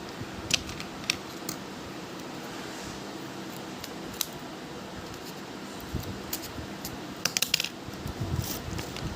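Hands handling and opening a homemade paper blind bag and its contents. There are scattered sharp crinkles and clicks, with a quick run of them about seven and a half seconds in.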